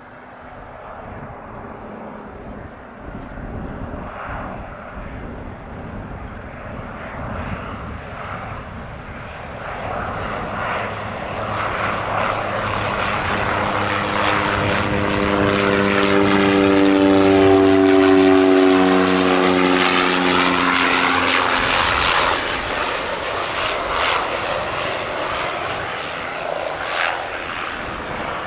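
Cessna Caravan single turboprop passing close while landing. Its engine and propeller grow louder to a peak about two-thirds of the way in, with the tone dropping in pitch as it goes by, then fade.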